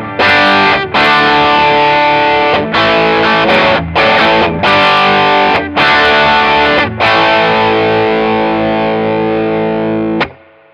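Overdriven electric guitar: an Eastman SB59/v through a Mesa Boogie Express 5:50+ on its clean channel, driven by an MXR Sugar Drive pedal. Rock chords are struck with short stops between them, and the last chord rings for about three seconds before being cut off.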